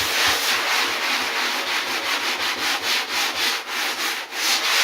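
Sandpaper rubbing across cured repair foam on a surfboard in quick, repeated strokes.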